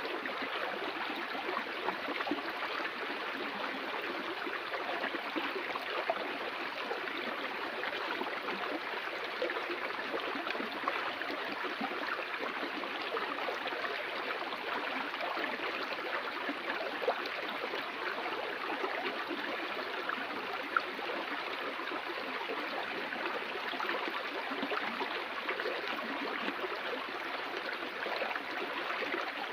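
Flowing stream water, a steady rush and burble with small splashes throughout.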